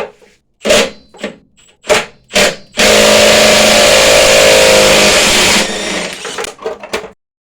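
A few separate knocks and clicks, then a Milwaukee impact wrench runs loudly for about three seconds, turning out the water heater's anode rod. It runs on more quietly for about another second and a half and stops.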